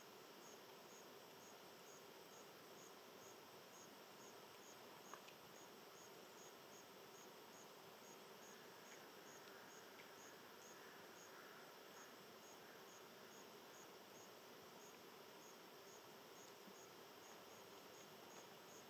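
A single insect chirping faintly in a steady rhythm of short, high chirps, roughly two and a half a second, over soft background hiss.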